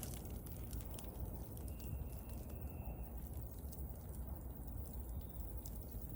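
Wood bonfire burning: a steady low rumble of flame with scattered small crackles and pops. A faint thin whistle sounds for about a second near two seconds in.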